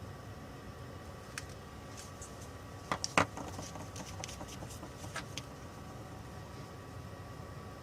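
A few sharp clicks and taps of small tools and parts being handled on a workbench, the loudest a quick cluster about three seconds in, over a steady faint hum.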